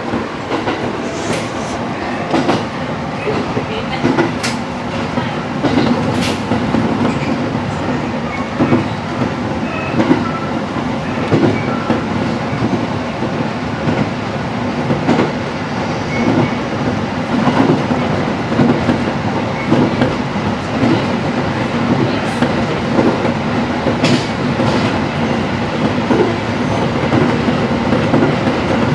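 Train running at speed on jointed track: a steady running rumble with the clickety-clack of wheels crossing rail joints every second or two.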